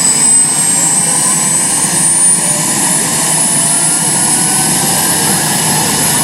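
Steady aircraft turbine engine noise with a low rumble, under a thin high whine that slowly rises in pitch.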